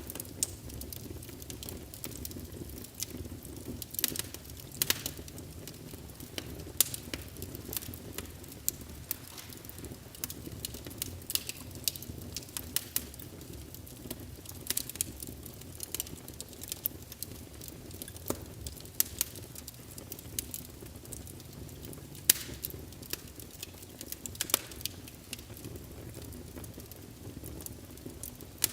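Wood fire burning in a fireplace: a low steady rumble of flames under irregular sharp crackles and pops from the burning logs.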